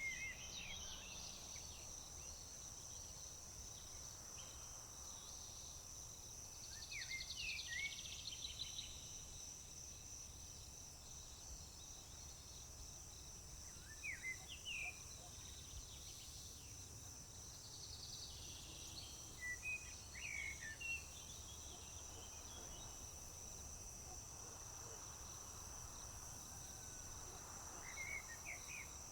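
Crickets chirping in a steady, unbroken high-pitched trill, with a songbird singing short phrases every five to seven seconds over it.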